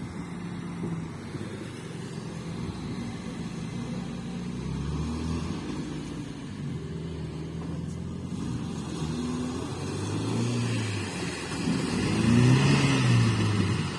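Off-road vehicle's engine revving up and down under load, swelling several times and loudest about twelve seconds in.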